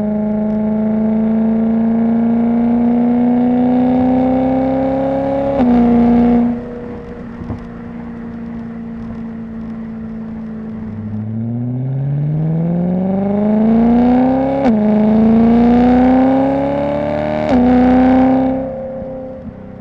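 BMW E90 M3's S65 V8 with an aftermarket exhaust, accelerating through the gears. The engine note climbs steadily, drops at a shift about five and a half seconds in, then eases off; from about eleven seconds it pulls hard from low revs, with quick upshifts twice before lifting off near the end.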